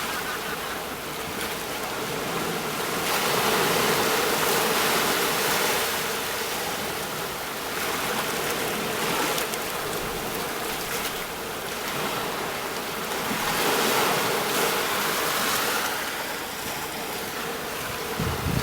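Sea waves breaking on a shore: a continuous wash of surf that swells and eases every few seconds.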